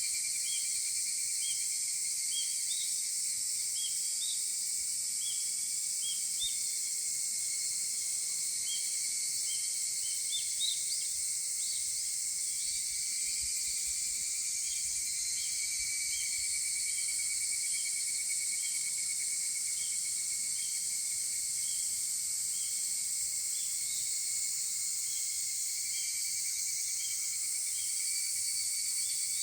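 A steady, high-pitched chorus of many higurashi cicadas. A short chirp repeats about twice a second, with a brief flurry of rising notes about ten seconds in.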